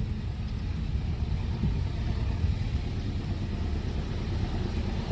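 Steady low rumble of a running vehicle engine, with no clear rise or fall.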